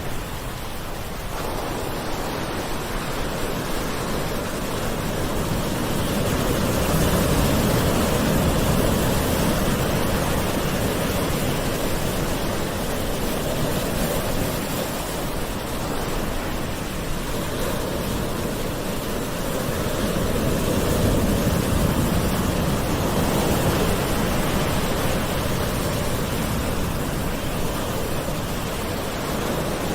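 Gentle ocean waves washing onto the shore in a continuous rush of surf, swelling slowly twice, about a quarter and two-thirds of the way through.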